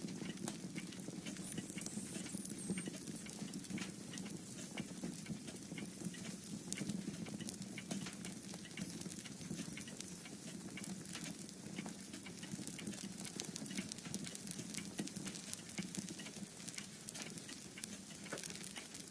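Wood fire crackling in a fireplace: many irregular small pops and snaps over a steady low rumble.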